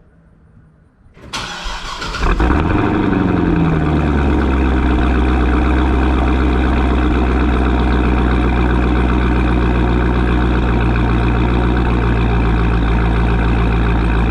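2010 Corvette ZR1's supercharged 6.2-litre LS9 V8 starting: a brief faint crank, the engine catching about a second in with a flare of revs that drops back over the next couple of seconds, then a steady, loud idle until it cuts off suddenly at the end.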